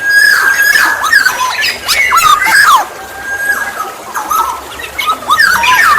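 Black-naped oriole (kepodang emas) singing: phrases that each open with a long, steady whistle and break into quick, falling, fluty notes, repeated three times.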